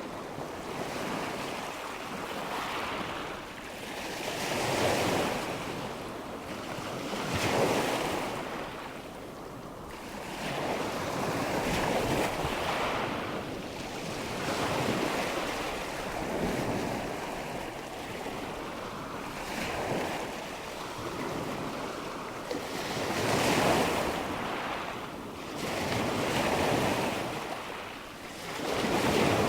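Nature soundscape of rushing water and wind, a steady wash that swells and fades every few seconds like breaking surf.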